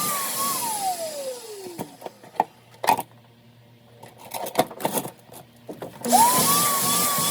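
Electric motor of a power tool running with a wavering whine, then winding down to a stop. A few clicks and knocks follow before it starts up again and quickly comes back up to speed near the end.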